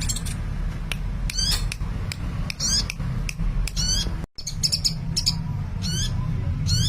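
Sunbird ('kolibri') singing energetically: a run of high, thin chirps and short, fast zigzag trills, repeated every second or so, over a steady low hum. The sound cuts out briefly about four seconds in.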